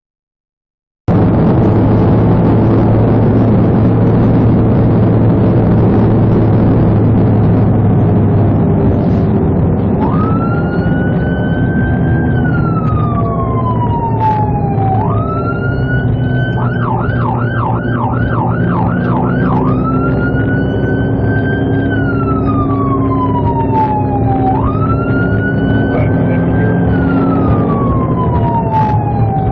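Police car siren over steady engine and road noise. The siren starts about ten seconds in with a slow rising and falling wail, switches to a fast yelp for about three seconds, then goes back to the wail.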